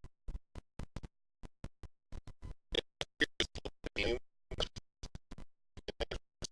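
Garbled, stuttering audio from a broken stream: short fragments of a man's voice and handling noise cut off by dropouts several times a second, so no words come through.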